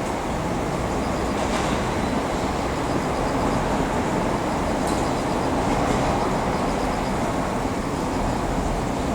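Steady rumble of railway cars rolling slowly while being shunted, with a faint high-pitched pulsing that comes in short runs.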